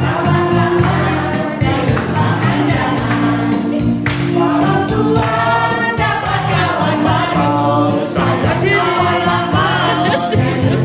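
A group of voices singing a song over steady instrumental accompaniment.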